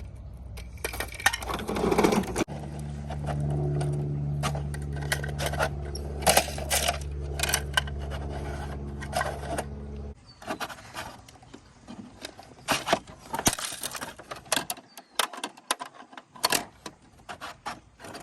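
Small hard plastic and metal parts clicking, rattling and scraping, as when toy trucks are handled and rolled about. A steady low hum runs underneath for several seconds and cuts off suddenly about ten seconds in.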